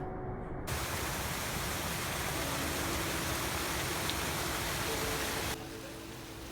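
Rushing water of a snowmelt creek and waterfall: a steady, even noise. It cuts in abruptly about a second in and drops to a lower level near the end.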